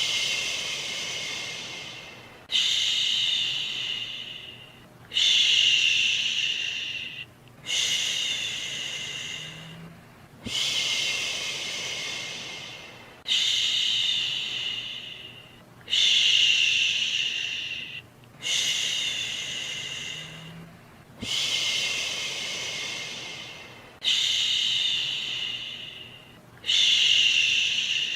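A person's voice making a long soothing 'shhhh' shushing sound, repeated about every two and a half seconds. Each shush starts suddenly and fades away, eleven in all.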